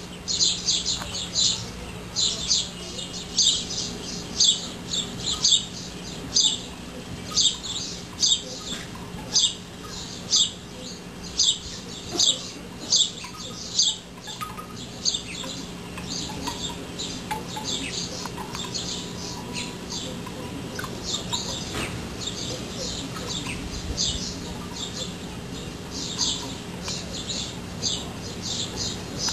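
A bird chirping over and over in short, high-pitched chirps, about one to two a second, softer in the second half.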